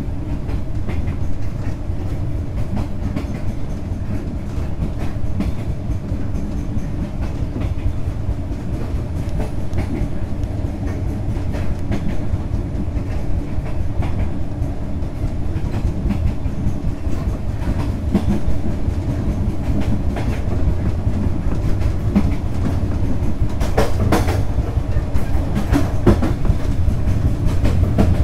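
Vietnam Railways SE19 passenger train running along the track: a steady low rumble from the carriage with wheels clacking over rail joints. A run of sharper clacks comes about 24 seconds in, and the sound grows a little louder toward the end.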